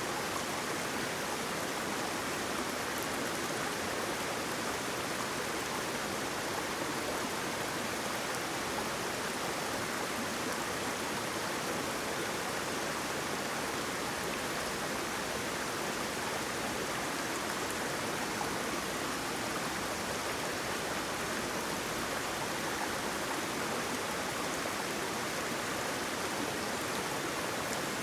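Waterfall: water flowing steadily as an even, unbroken wash of noise.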